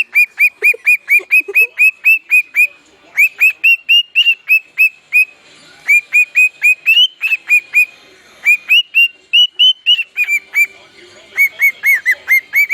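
Pet bird whistling a song of quick, repeated rising notes, about four or five a second, in phrases of several notes broken by short pauses.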